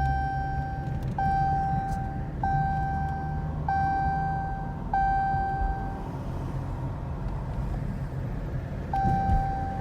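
Dodge Challenger's seatbelt warning chime: a steady beep about a second long, repeated five times, pausing for about three seconds, then starting again near the end, over the low rumble of the car driving. It sounds because the driver's seatbelt is unbuckled.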